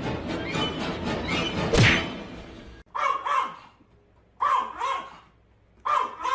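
A dog barking in short pairs and small groups of barks with pauses between. Before the barking starts, a busy clattering stretch with one loud thump cuts off suddenly.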